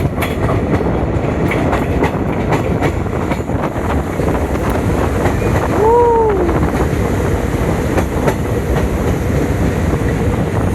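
A passenger train running on the rails: a steady rumble with quick clicks of the wheels over rail joints. About halfway through, one short tone rises and then falls in pitch.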